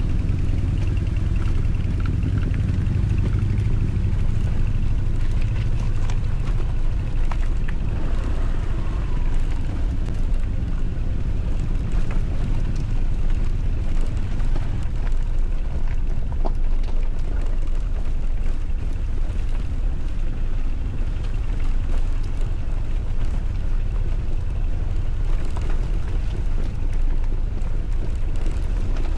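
Motorcycle on the move: a steady low rumble of engine and wind buffeting the microphone, with no distinct events.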